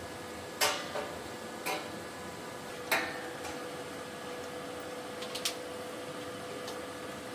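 A few light, sharp clicks and taps at irregular intervals, the loudest about a second in and about three seconds in, over a faint steady hum.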